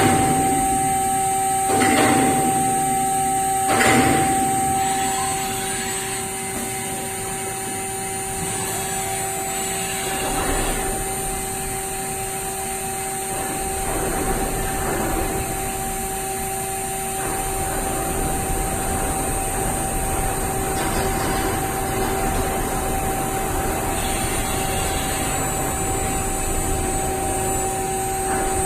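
CNC turn-mill machine running, with a steady whine over mechanical cutting noise and three short louder bursts in the first few seconds.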